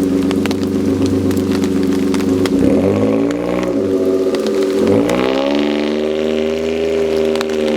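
Nissan Roox's naturally aspirated K6A 660 cc three-cylinder engine droning through a Samurai Power aftermarket rear muffler while driving. The note holds steady, dips in pitch and recovers twice, then rises and holds steady at a higher pitch, as the CVT keeps the engine speed near-constant under acceleration.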